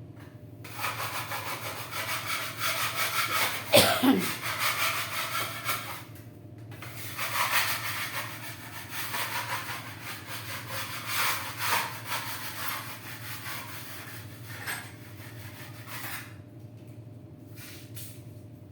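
Scratchy rubbing and rustling noise in two long stretches, with a short falling sound about four seconds in.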